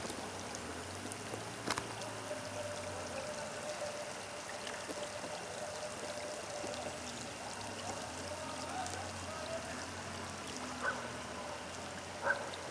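Steady rush of running water, with a couple of sharp ticks over it.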